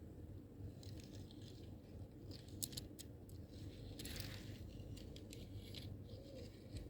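A toy truck being handled, with faint light scrapes and a few sharp clicks over a steady low hum.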